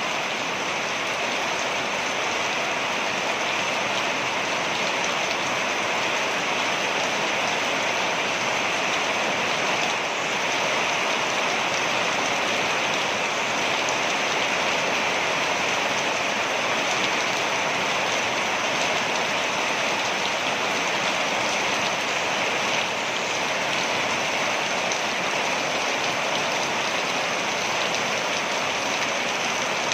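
Waterfall: a steady, even rush and hiss of falling water, with no change or break.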